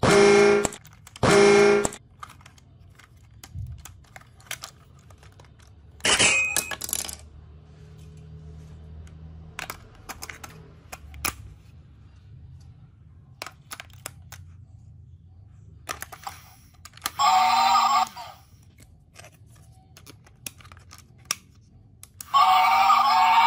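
Battery-powered plastic toy locomotive being handled: scattered clicks and knocks of plastic, including its battery compartment, with a few short bursts of the toy's electronic sound effects. Near the end it is switched on and runs with a steady electronic sound.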